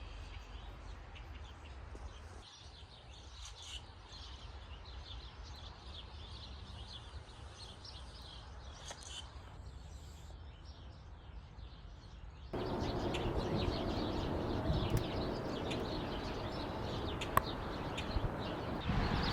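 Small birds chirping repeatedly over quiet outdoor background noise. About two-thirds of the way through, the background jumps suddenly to a louder, fuller noise, with chirps still heard over it.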